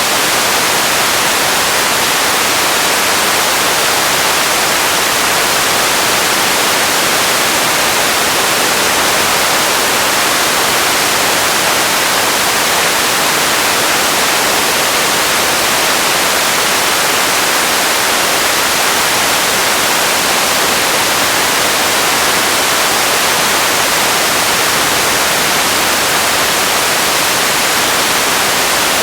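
Radio static: a steady, loud hiss of noise, brightest in the high end, unchanging throughout.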